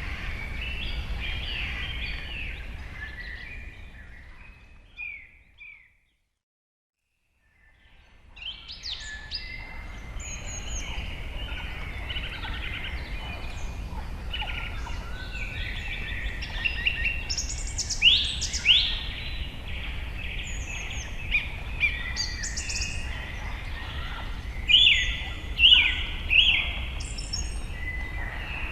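Many wild birds calling and chirping in quick, overlapping phrases over a steady low background noise. The sound fades out about four to six seconds in, drops to silence for about two seconds, then fades back in with the birds calling again.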